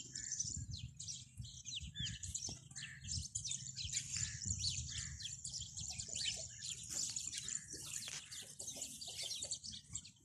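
Young ducklings peeping and small birds chirping: many short, high calls, some gliding in pitch, over a low rumble.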